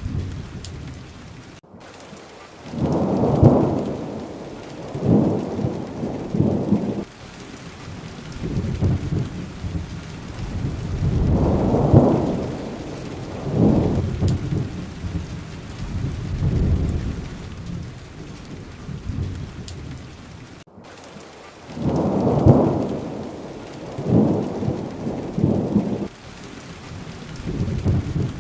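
Steady heavy rain hissing, with rolling thunder that swells up again and again, the loudest peals about 3, 12 and 22 seconds in. The sound cuts out for an instant twice, where the recording is looped.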